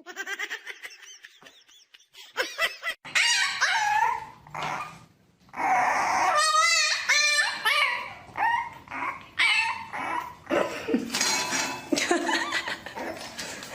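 A dog vocalising in short yips and wavering, pitched whines, with people laughing.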